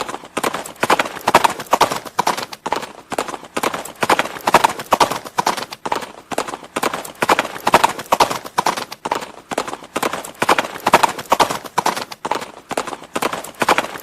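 Horse hooves clip-clopping in a steady, fast, repeating rhythm of sharp hoofbeats.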